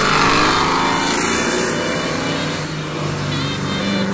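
Car engine revving, its pitch climbing repeatedly.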